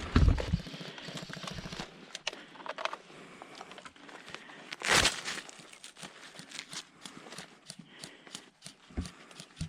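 Rustling, crinkling noise of clothing and gear moving against a body-worn microphone, with scattered sharp clicks. There is a low thump right at the start and a louder scuff about five seconds in.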